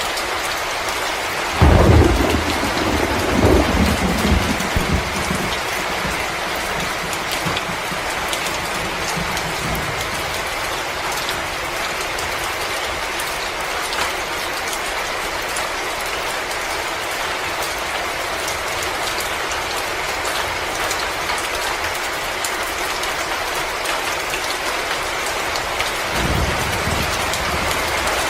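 Steady hiss of heavy rain with a low rumble of thunder that starts suddenly about two seconds in and dies away over several seconds; another rumble begins near the end.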